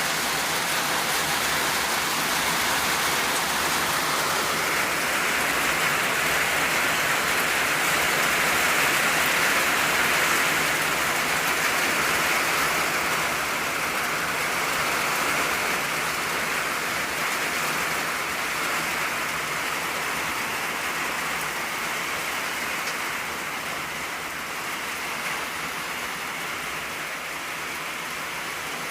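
Steady rain drumming on an old tin roof, a dense hiss of drops that swells a little several seconds in and eases slightly near the end.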